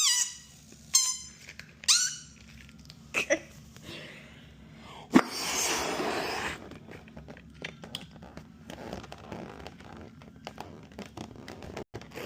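Rubber balloon squeaking: three short high squeals near the start, each sliding down in pitch. About five seconds in there is a sharp snap, followed by about a second of hissing.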